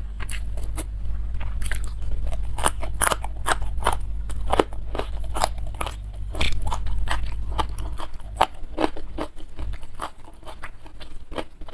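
Close-miked crunchy chewing of raw young jengkol beans: a rapid run of crisp crunches and wet mouth clicks, densest in the middle and thinning toward the end.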